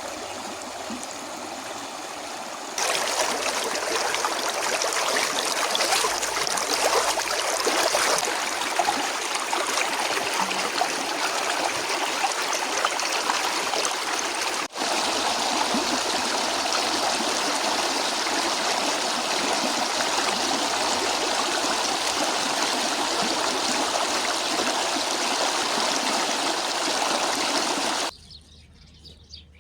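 Stream water running with a steady rushing sound, which gets louder about three seconds in. Near the end it drops away sharply, leaving faint bird chirps.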